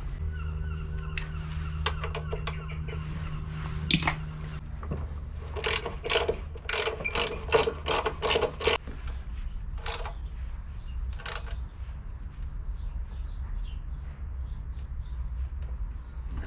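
Ratchet spanner clicking: a run of about eight sharp clicks a few seconds in, then a few single clicks, over a steady low hum.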